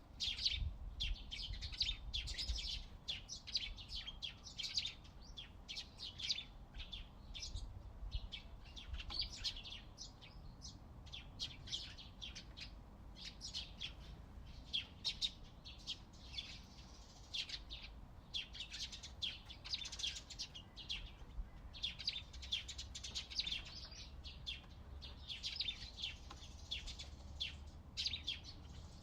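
Several small birds chirping and singing at once: dense, quick repeated chirps with no pause, over a faint low background rumble.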